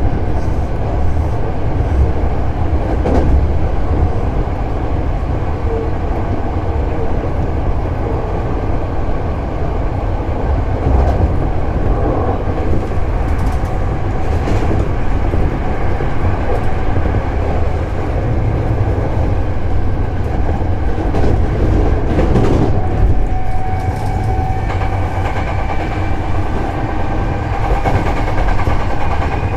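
Hankyu 7000 series electric train running at speed, heard from inside the car. A steady rumble with occasional wheel knocks, and a faint steady whine that comes in near the end.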